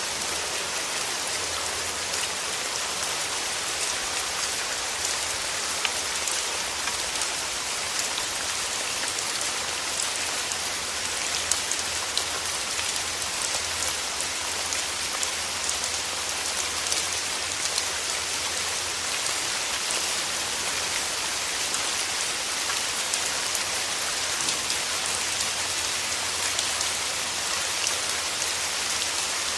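Steady rain with many small drop ticks, the hiss strongest in the high range and with a faint low rumble underneath.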